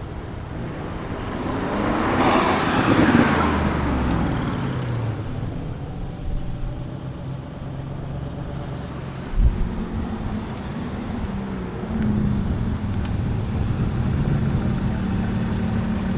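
Road traffic of cars: one car passes, swelling to a peak about three seconds in. After it, car engines run at low steady revs, louder from about twelve seconds on, with a single short thump about nine seconds in.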